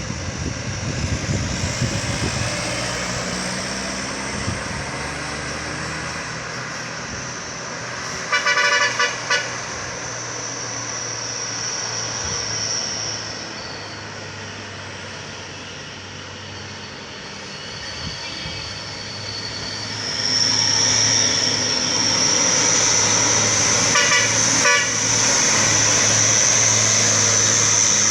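A train and traffic passing on a sharp curve: a steady low engine hum under a high-pitched squeal, typical of train wheels grinding through a tight curve. A horn sounds in short blasts twice, about 8 seconds in and again near 24 seconds.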